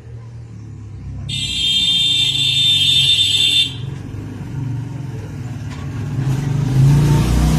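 A vehicle engine runs low and steady, growing louder near the end. About a second in, a loud, shrill, steady high-pitched sound cuts in and stops abruptly some two and a half seconds later.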